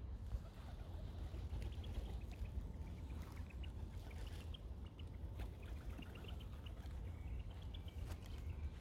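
Small birds chirping, with many short high notes in quick runs, over a steady low rumble.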